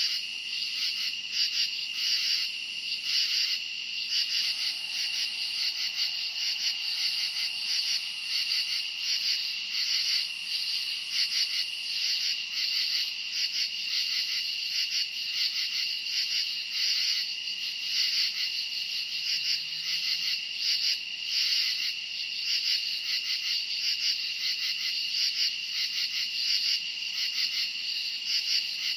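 Night chorus of crickets chirping: a steady high trill with rapid, rhythmic chirps pulsing over it, unbroken throughout.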